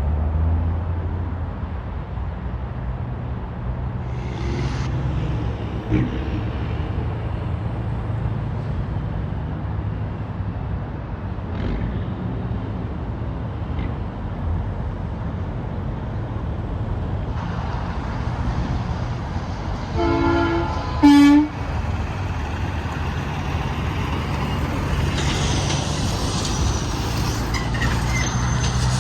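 Steady rumble of highway traffic, with a passing truck sounding two short air-horn blasts about two-thirds of the way in, the second one louder.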